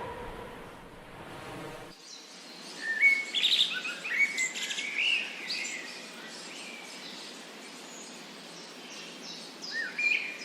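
Birds chirping and calling in short gliding notes, loudest about three to five seconds in and again near the end, over a steady outdoor hiss.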